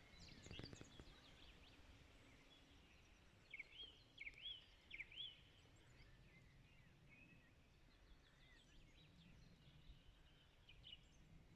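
Songbirds singing faintly in the distance: a cluster of four or five short whistled notes that rise and fall about four to five seconds in, with scattered thin chirps before and after.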